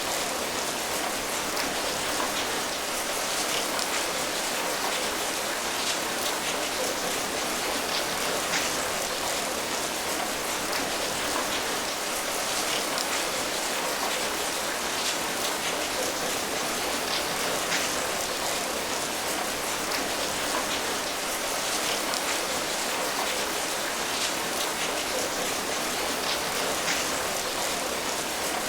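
Steady rain falling, a dense even hiss with individual drops pattering on a surface.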